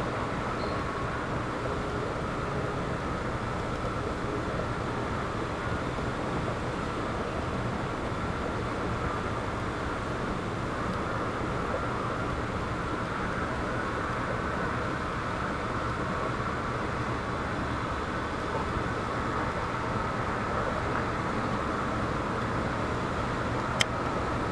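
Steady wind noise with a low rumble that stays even throughout. A single sharp click near the end.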